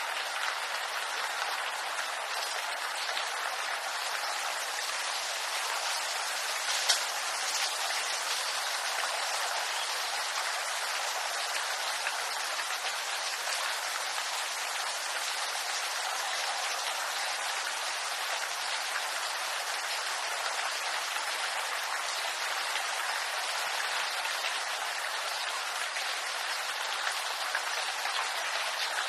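Rain falling steadily on bamboo leaves, an even, unbroken hiss, with one sharp tick about seven seconds in.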